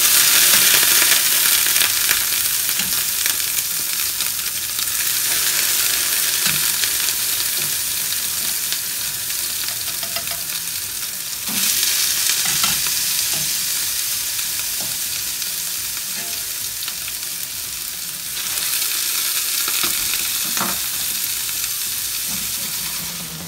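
Freshly boiled, drained potato gnocchi sizzling in hot vegetable oil in a frying pan. The sizzle swells sharply four times as more gnocchi are dropped in and eases off between batches, with a few light knocks from the slotted skimmer.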